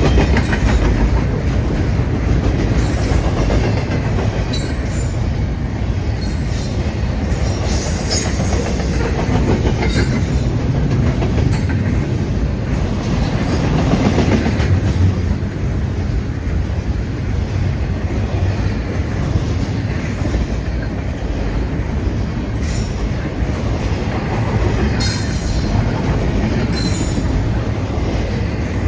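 Long freight train rolling past, a steady rumble of wheels on rail with clacking over the joints and brief high-pitched wheel squeals coming and going.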